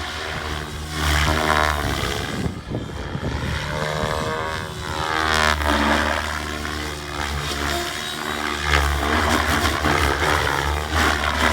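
Gaui X7 electric radio-controlled helicopter in flight: the whine of its rotor and motor rises and falls in pitch as it manoeuvres and passes.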